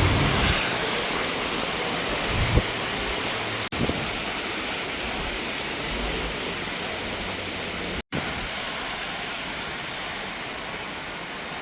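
Steady hiss of heavy rain, with a brief low thump about two and a half seconds in. The sound cuts out for an instant twice, around four and eight seconds in.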